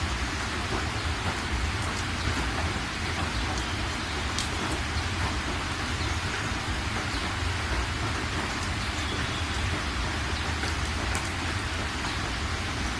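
Steady rain falling, with a low rumble underneath and scattered sharp ticks of drops striking close by.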